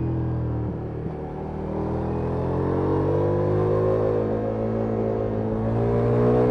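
Ducati Multistrada V4S's V4 engine through an Akrapovic exhaust, heard on board. It eases off about a second in, then climbs steadily in pitch under acceleration until near the end.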